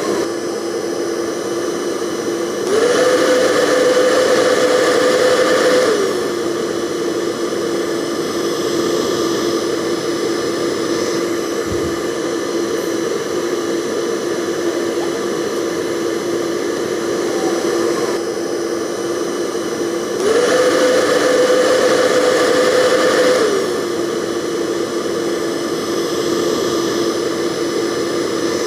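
Electric hair dryer running steadily: a motor whine over a rushing airflow hiss. Twice the whine glides up in pitch and the dryer gets louder for about three seconds, then settles back down.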